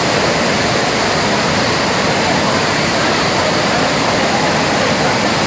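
Waterfall running: a loud, steady rush of falling water that does not change.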